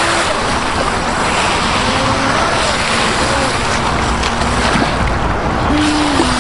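Small radio-controlled jet boat's brushless electric drive whining on the water, a thin pitch that rises and falls, under a loud steady rushing noise.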